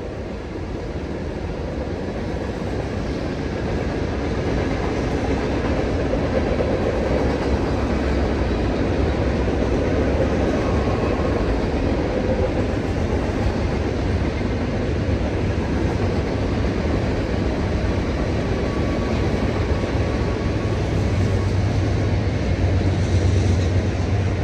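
Norfolk Southern freight train passing close by: a steady rumble and rolling rail noise that builds over the first few seconds, then holds. The low rumble grows stronger near the end.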